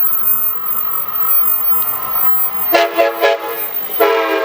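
Passenger train rolling past with a steady rumble, then its locomotive horn sounds: two short blasts about three seconds in, then a longer blast near the end.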